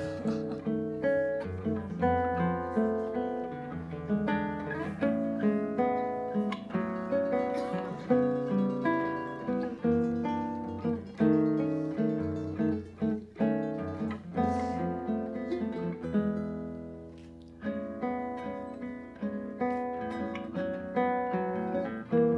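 Acoustic guitar playing a song's instrumental introduction, plucked notes and strummed chords, easing off briefly about three-quarters of the way through before picking up again.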